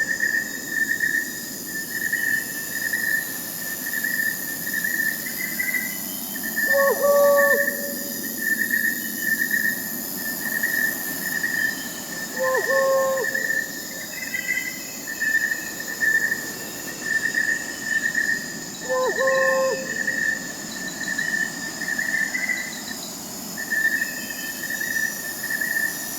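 Crickets chirping in a continuous pulsing trill over a higher steady insect buzz. An owl hoots in short calls that recur about every six seconds.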